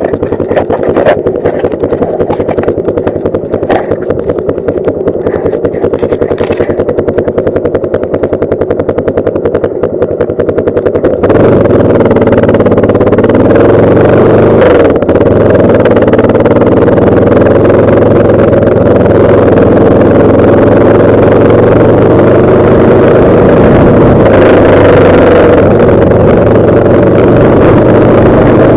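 Yamaha Lander 250 single-cylinder motorcycle engine running on the move, its pitch rising and falling slightly, with wind noise on the microphone. About eleven seconds in the sound suddenly gets louder and fuller and stays so.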